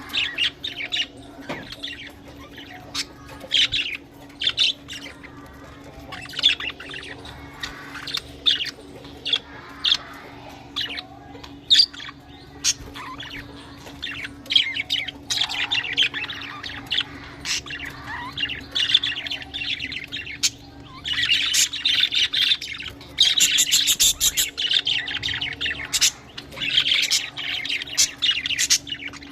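A flock of budgerigars chattering: continual warbling chirps and sharp squawks, busiest and loudest near the end, over a faint steady hum.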